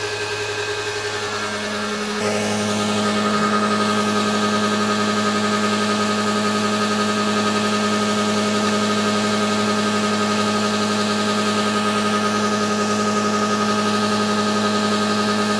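Car engine running at a steady, unchanging speed with apple juice poured into it in place of engine oil; it gets a little louder about two seconds in.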